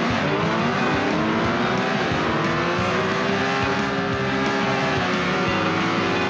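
Racing car engine running at high revs, its pitch dipping and rising slowly a few times.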